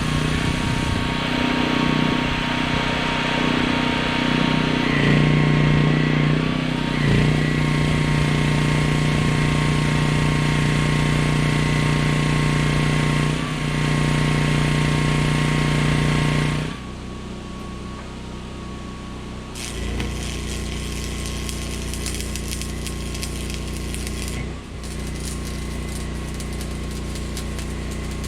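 Arc welding with a Lincoln AC 225 buzz box stick welder on 7018 rod, with the arc crackling over the steady hum of a 6,500 W Honda generator. There are two welds: the first is longer and ends about 17 seconds in, and a second begins about 20 seconds in.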